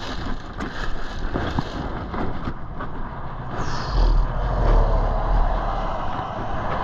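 A road vehicle passing close by, its low rumble and tyre noise building about three and a half seconds in, loudest around four to five seconds, then easing off. Before it, scattered clicks and rustling.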